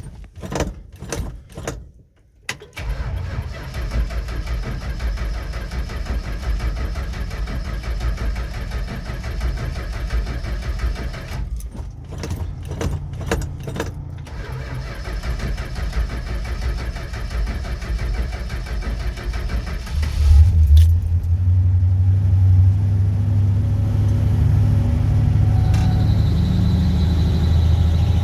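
A 1968 Chrysler 300's 440 V8 cold start, heard from inside the cabin: keys jangle and the starter cranks in several bursts, then long cranking. About 20 seconds in the engine catches and settles into a steady idle.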